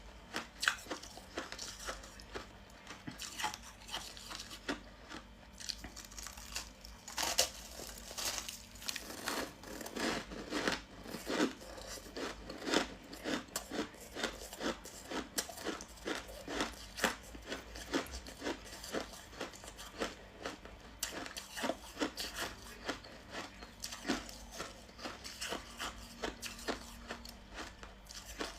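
Close-up crunching and chewing of frost ice scraped from a humidifier: a steady run of short, sharp crunches, about one or two a second.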